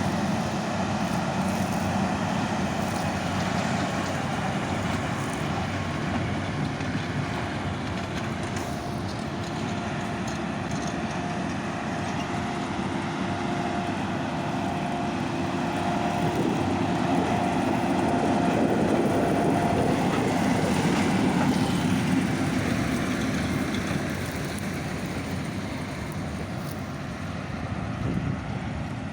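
Heavy farm machinery running steadily under load, with a steady engine hum and mechanical noise. It grows louder in the middle as the machine comes closer, then fades.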